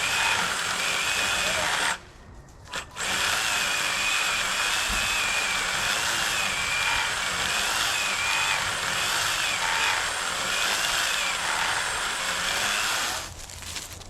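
Power saw cutting into the wood of a fallen tree: a short run, a brief stop, then a long steady cut with a wavering motor whine, stopping near the end.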